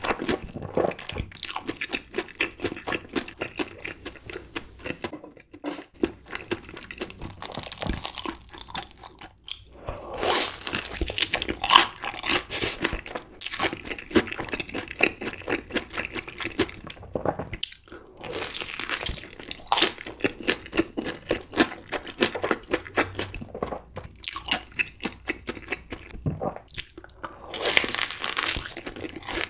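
Close-up chewing of a cheese-sauce-coated mozzarella corn dog: rapid crunching of its fried batter crust, with louder bursts of crunch now and then and a fresh bite near the end.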